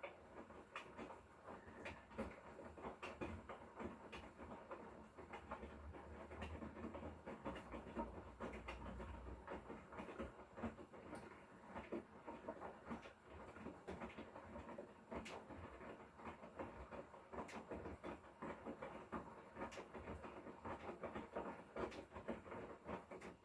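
Hotpoint Core washing machine running a wash: the drum turns the load with a dense, irregular patter of sloshing and small knocks. A low motor hum comes in for a few seconds about a quarter of the way through.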